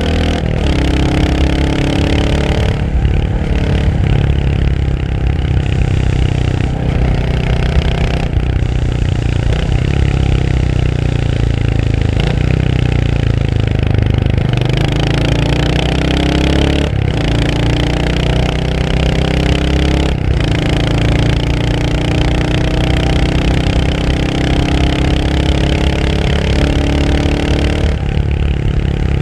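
Royal Enfield Hunter 350's 349 cc single-cylinder engine pulling through the gears: the note rises, drops sharply at each gear change, and rises again, several times over, with stretches of steadier cruising between.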